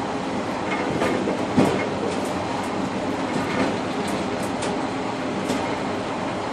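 Passenger train running at speed, heard from inside the rear car's cab: a steady rumble of wheels on rails with scattered clicks and knocks from the wheels crossing rail joints, the loudest knock about one and a half seconds in.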